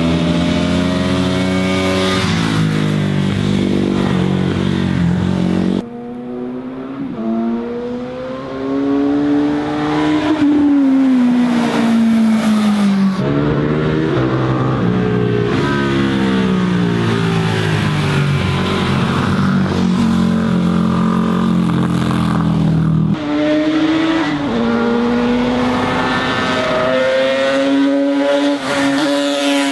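Sport motorcycle engines revving hard and accelerating through the gears, the pitch climbing with each gear and dropping at every shift, with a long falling run as one slows. The engine sound changes abruptly twice.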